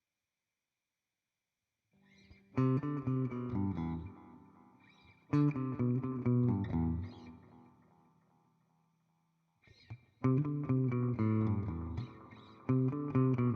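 Clean electric guitar with humbuckers played through a Nux Time Core delay pedal and a Fender '65 Twin Reverb amp simulation: after about two seconds of silence, short phrases of picked notes and chords, each trailing off, with a pause of about a second and a half in the middle.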